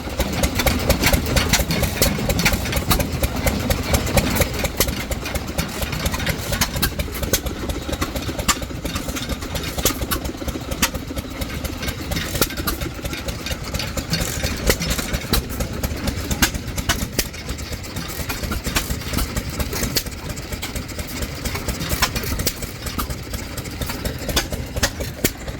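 Antique stationary gas engines running, a steady low chug with sharp exhaust pops and clatter at irregular spacing.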